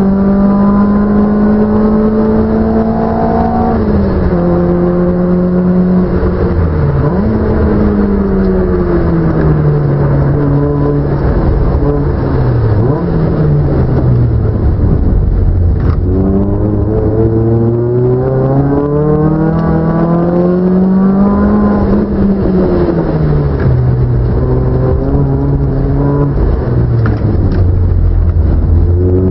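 Car engine running hard and continuously, its pitch climbing under acceleration, dropping sharply at gear changes, and sliding down as it slows, several times over.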